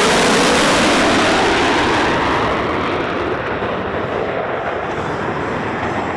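Jet aircraft passing low, a loud roar that peaks in the first second and then fades and dulls as it moves away.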